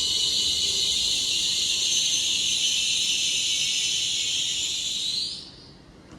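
Loud, steady hiss of air from a train standing at the platform, rising slightly and cutting off about five seconds in.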